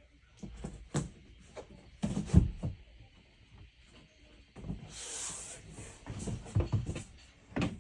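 Wooden knocks and bumps from cabinet or board pieces being handled and shifted. A short scraping slide comes about five seconds in.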